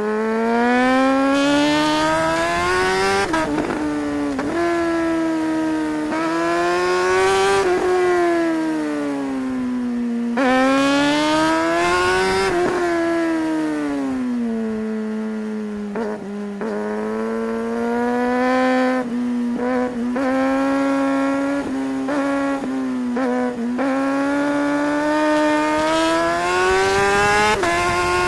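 Suzuki GSR 600 motorcycle's inline-four engine accelerating through the gears. Its pitch climbs and drops back at each gear change, falls away about halfway through, runs steadier for a while, then climbs again near the end.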